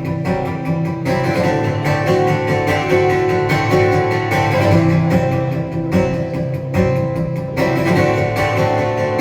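Live band playing the intro to a song, led by strummed guitar.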